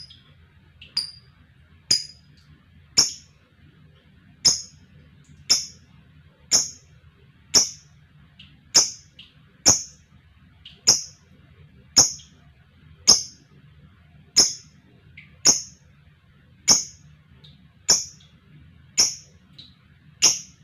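Lovebird giving short, sharp, high-pitched calls, one about every second, over and over at an even pace.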